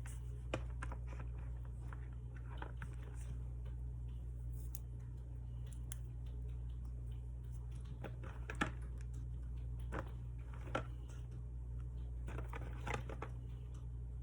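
Scattered small clicks and rustles of paper and tape being handled while decorating a planner, over a steady low hum. The sharpest ticks come about half a second in, near the middle, and a cluster near the end.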